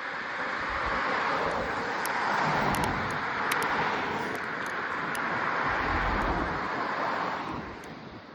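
A motor vehicle passing close by on the road: tyre and road noise swells up about a second in, holds, and fades away near the end.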